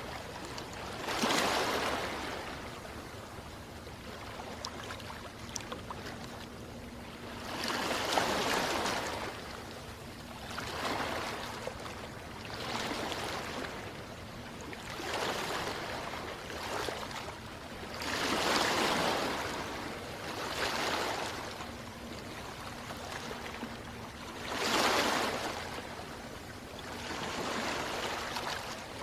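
Sea waves washing in, a swell of surf every few seconds over a steady background rush.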